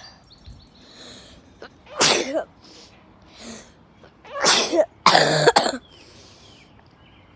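Three short, loud, breathy bursts from a person's nose and mouth: one about two seconds in, then two close together around the five-second mark.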